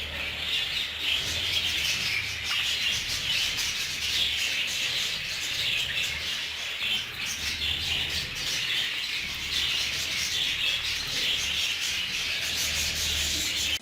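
A flock of budgerigars chattering continuously: a dense, steady twittering of many birds at once.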